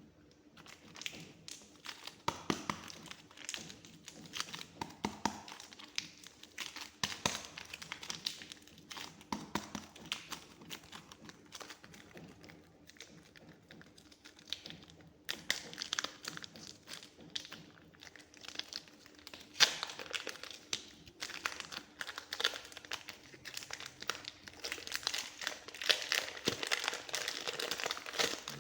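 Soft clay being pressed and squeezed: a run of small sticky crackles and pops, thinning out around the middle and busiest near the end.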